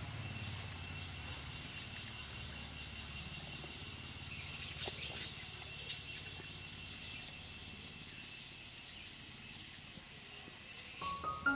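Outdoor ambience: a steady faint high tone with a low rumble that fades over the first few seconds. A few short bird chirps come about four to six seconds in, and music with piano-like notes begins near the end.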